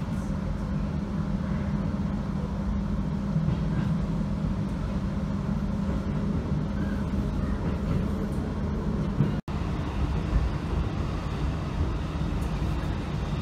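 Cabin sound of a standard-gauge JR 719 series electric train under way: a steady hum and rumble from the running gear. The sound cuts out for an instant about nine seconds in.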